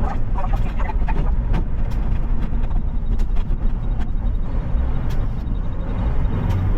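Garbage truck's diesel engine running steadily as the truck drives, a constant low rumble with a few scattered light clicks and rattles.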